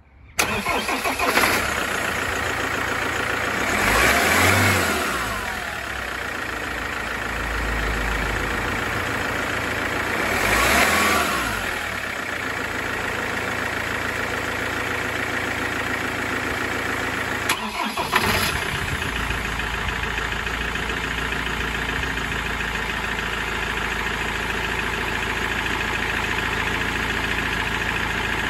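Land Rover Defender 110's turbodiesel engine starting up, then revved twice in short rising blips before settling into a steady idle. A couple of sharp knocks sound over the idle a little past halfway.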